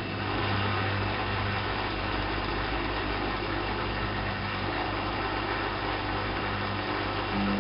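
Alaska WA8200 E front-loading washing machine running steadily: a low hum under a broad whirring noise from the turning drum and motor. Near the end a louder low hum sets in.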